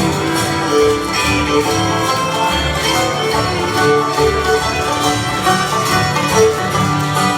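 Bluegrass string-band music with fiddle, banjo and guitar playing a dance tune at a steady beat.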